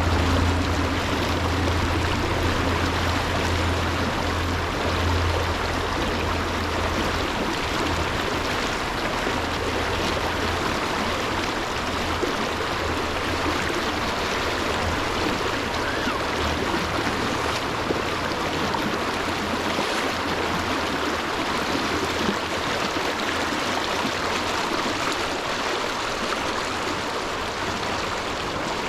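Stream water rushing and splashing steadily, with a low rumble underneath that is strongest in the first several seconds.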